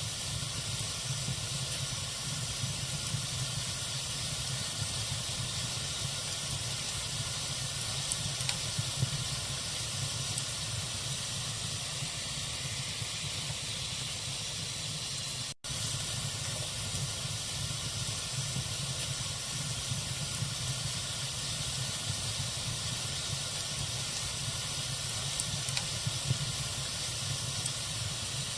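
Log fire burning in a fireplace: a steady hiss with a few faint crackles. There is a momentary dropout just past halfway.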